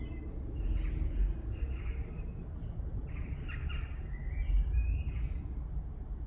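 Small birds singing and chirping in short phrases over a steady low rumble.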